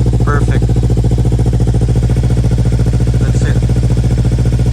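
Kawasaki Ninja 300's parallel-twin engine idling steadily with an even pulse, run after an oil change so the fresh oil circulates and the level in the sight glass comes down.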